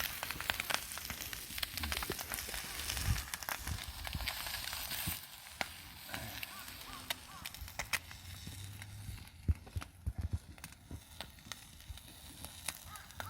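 Wood campfire crackling with many sharp pops and snaps. A steady hiss runs through the first five seconds or so, then drops away, leaving scattered pops.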